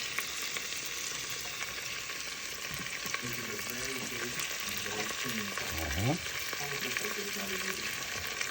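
Curry powder frying in butter in a pan: a steady sizzle, with the spoon stirring and ticking against the pan now and then.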